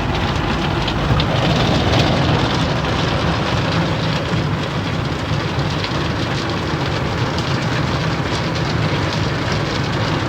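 D&S IQ soft-touch automatic car wash in its cloth-brush cycle: spinning cloth brushes scrubbing and slapping over the car amid water spray, over a steady low machine hum.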